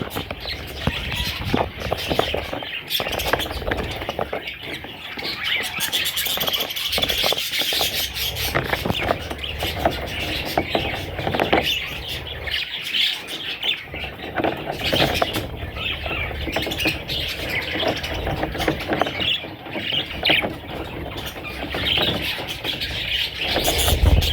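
Budgerigar chicks chirping continuously, many short overlapping chirps, with scattered clicks among them.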